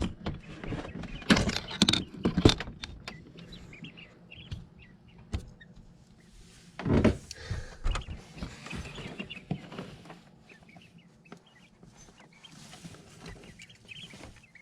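Hands working in a chick brooder around a hanging waterer: a few sharp knocks and rattles near the start, a louder rustling scrape about seven seconds in, then softer rustling and small clicks.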